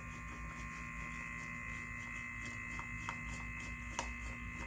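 A steady electrical hum with a few faint, sharp clicks, the clearest about four seconds in.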